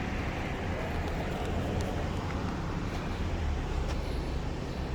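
Steady low rumble and road noise of a vehicle driving, with no distinct events.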